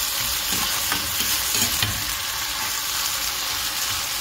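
Bitter gourd and potato sticks sizzling in hot oil in a pan, stirred and turned with a metal spatula that scrapes faintly now and then.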